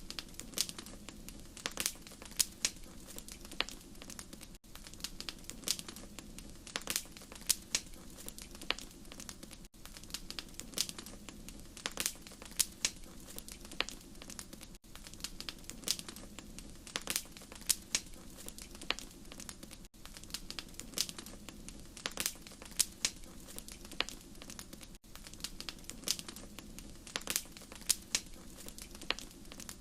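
Wood fire crackling in a fireplace: irregular sharp pops and snaps over a low steady rumble, with a brief dropout about every five seconds.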